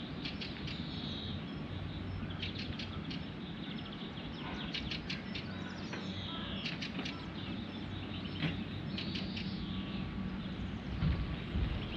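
Songbirds singing, in repeated short phrases, several ending in a falling trill, over a low steady hum. A few low thumps come near the end.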